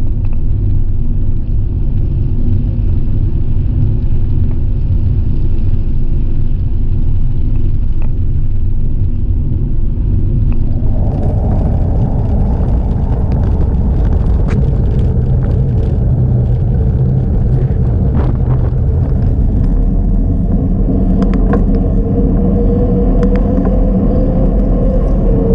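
Wind buffeting the microphone and road rumble from a bicycle ride, loud and steady. About eleven seconds in the noise turns brighter, with scattered sharp ticks.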